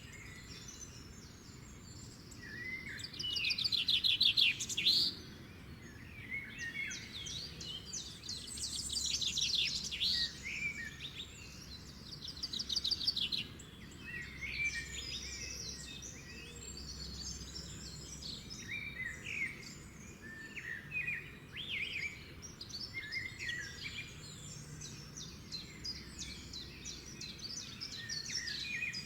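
Several songbirds singing and calling over one another, with loud fast trills about three, nine and thirteen seconds in.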